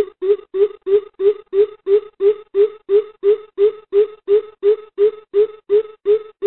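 Greater coucal calling: a long series of deep hoots, about three a second, evenly spaced and steady in pitch.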